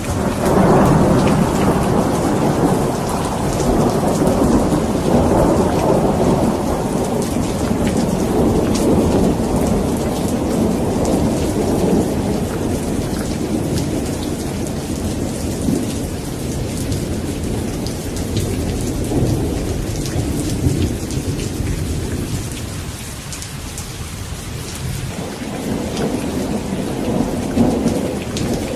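Steady rain with rolling thunder rumbling underneath. The rumble eases off about two-thirds of the way through and builds again near the end.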